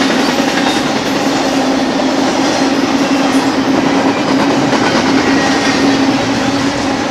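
Double-stack intermodal freight train's container-laden well cars rolling past, a steady rolling noise of steel wheels on rail.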